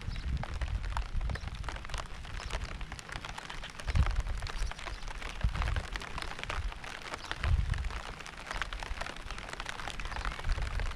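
Steady rain with a dense patter of drops. Low rumbles swell about four seconds in and again near eight seconds.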